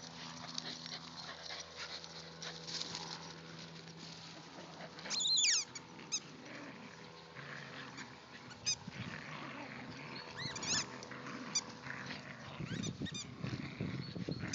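Dog playing with a squeaky toy: a string of short, high squeaks. The longest and loudest comes about five seconds in and slides down in pitch. Low scuffling follows near the end.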